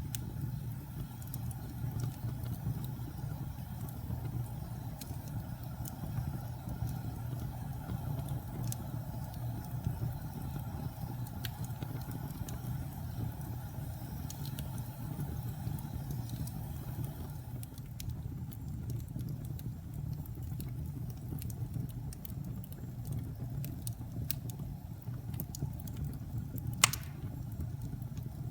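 Wood fire burning in a fireplace: a steady low rumble of flames with scattered sharp crackles, and one louder pop near the end.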